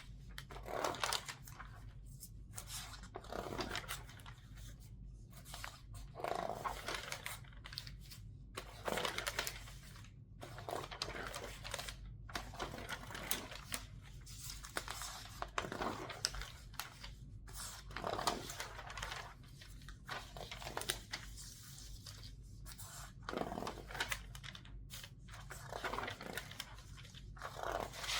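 Newspaper pages being turned quickly one after another, each turn a crisp rustle, with the sheets squeezed and crinkled between turns.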